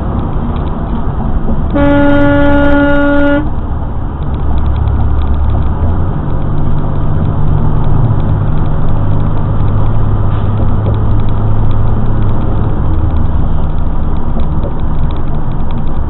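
Vehicle horn sounding once, for about a second and a half, over a steady low rumble of engine and road noise from a moving vehicle.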